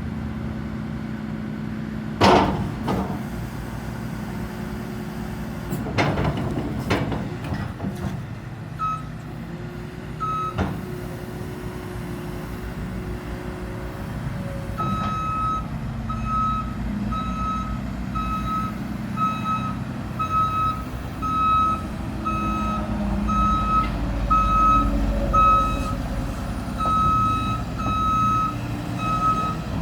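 LiuGong excavator's diesel engine running steadily, with a few sharp clanks early on, the loudest about two seconds in. A travel alarm starts beeping about nine seconds in and runs steadily from about fifteen seconds, roughly one high beep a second, as the machine moves.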